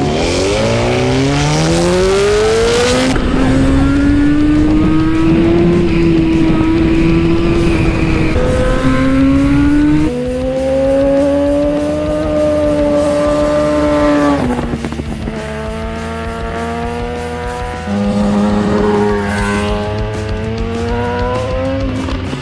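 Suzuki GSX-R1000 sport bike's inline-four engine accelerating hard. Its pitch climbs and then drops at each upshift, several times.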